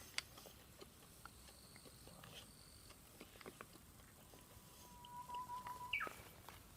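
Faint, scattered crackles and pops of a wood fire. About four seconds in, a thin whistling tone holds steady for over a second, then jumps higher and falls away.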